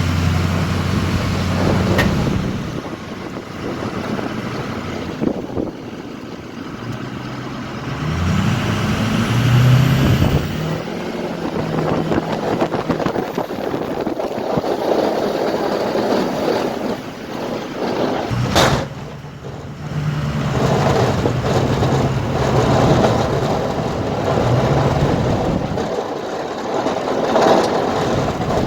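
Snow plow truck's engine running, its pitch rising and falling as it revs up and down, over a steady rushing noise. A single sharp bang or clank comes about two-thirds of the way through.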